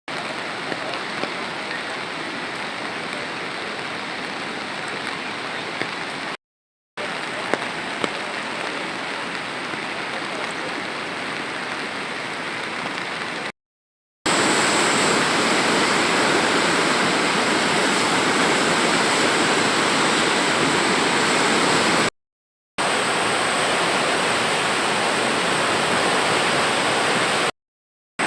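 Flooded Kali Gandaki river rushing in a steady, dense wash of water noise, broken by a few short silent cuts and louder from about halfway through.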